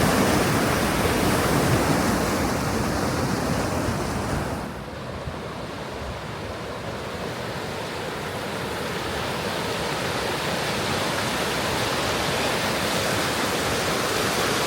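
Rushing floodwater on the swollen River Soar, a steady wash of water noise that dips about a third of the way through and then slowly builds again.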